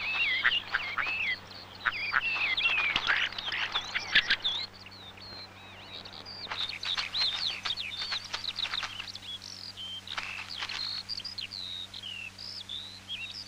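Bird song: a varied run of whistled notes, slurred up-and-down glides and clicks, busiest in the first few seconds, with a brief lull about five seconds in.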